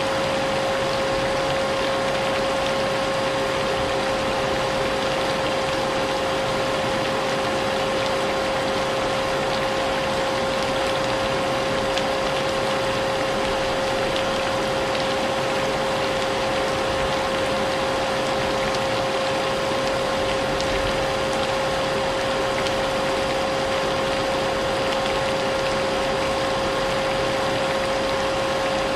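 Vacuum cleaner running steadily, its motor giving a constant whine over a hiss of rain, with no change in level.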